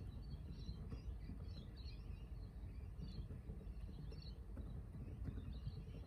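Birds chirping and twittering in scattered short calls over a low, steady background rumble.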